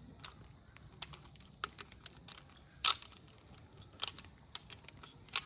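Wood campfire crackling: irregular sharp pops and snaps of burning firewood, the loudest a little before the middle.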